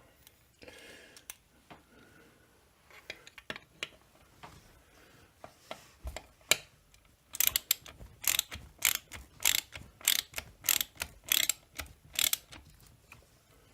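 Ratchet tool clicking in short runs as the chainsaw's crankcase screws are tightened, about two to three clicks a second, with fainter handling clicks before the run starts.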